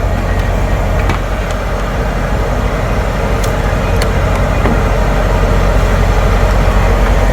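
A steady low hum with a rushing noise as diesel is pumped into a semi-truck's tank at a fuel island. A few light clicks come through, about a second in and again around three to four seconds in.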